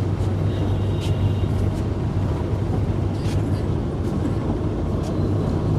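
Bus engine running with a steady low drone and rumble, heard from inside the cabin.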